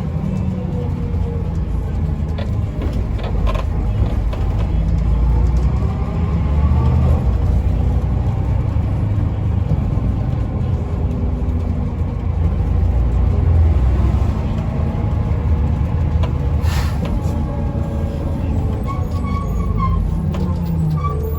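Inside a Mercedes-Benz O405N2 city bus on the move: steady low rumble of the straight-six diesel engine and road noise, with a drivetrain whine that rises and falls in pitch as the bus speeds up and slows. A short hiss of air about seventeen seconds in.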